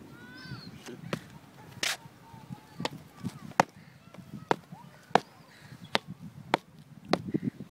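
Feet stomping on the ground in a series of sharp thuds, roughly one every two-thirds of a second, to scare off seagulls. Gull calls sound near the start.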